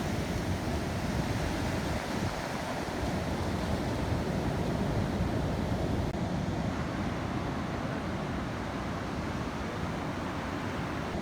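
Steady ocean surf with wind buffeting the microphone.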